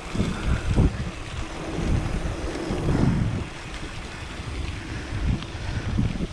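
Wind buffeting the microphone of a camera on a moving mountain bike, with an uneven low rumble that swells and dips in gusts.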